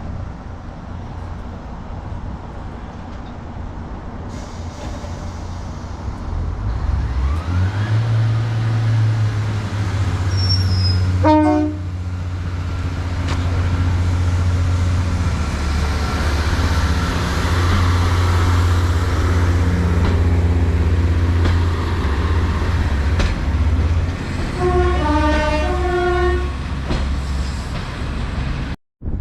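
A locomotive's engine running loud and steady, growing louder about seven seconds in, and a two-note train horn sounding a short run of alternating notes near the end.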